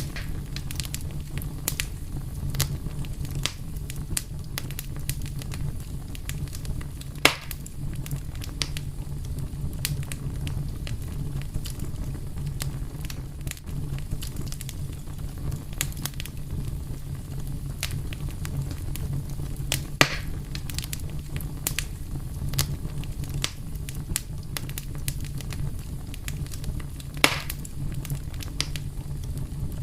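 Wood fire burning with a steady low rumble and frequent sharp crackles, with three louder pops at about 7, 20 and 27 seconds in.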